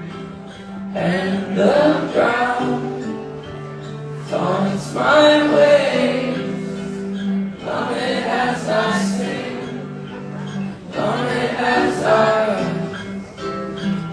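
Live band music: sung phrases over steady held low notes, with the voices sounding like many people singing together.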